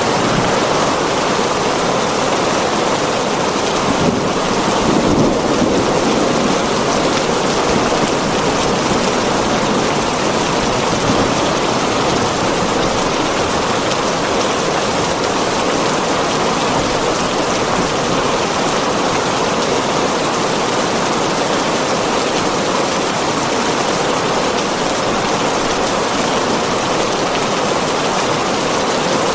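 Steady heavy rain drumming on a tin roof, a dense even patter that swells briefly about five seconds in.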